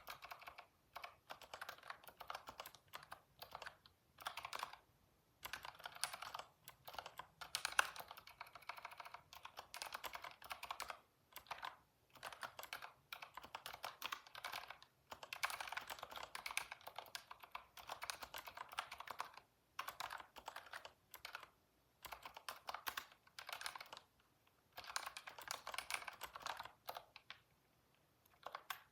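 Typing on a computer keyboard: rapid runs of key clicks in bursts of a few seconds with short pauses between, stopping just before the end.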